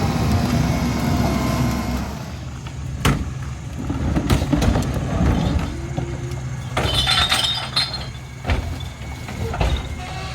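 Garbage truck running while it packs its load: an engine rumble with sharp knocks and a clattering, glassy crunch of trash being compacted about two-thirds of the way in.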